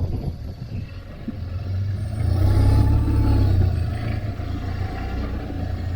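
BMW R1200GSA's flat-twin engine running at low speed in town, its rumble swelling louder about two seconds in and easing off again a couple of seconds later.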